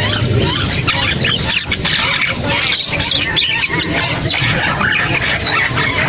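Caged birds chattering and squawking, with many short overlapping calls throughout.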